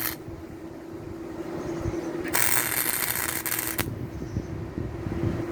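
Gasless flux-core wire welder arc crackling in one short burst of about a second and a half, midway through, over a steady hum.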